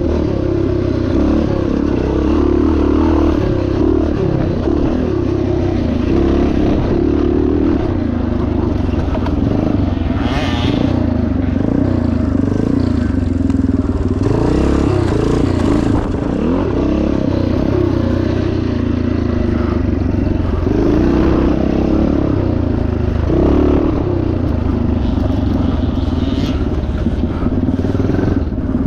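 1977 Yamaha TT500's single-cylinder four-stroke engine running hard on a cross-country course, its revs rising and falling without a break. About ten seconds in there is a brief rush of noise.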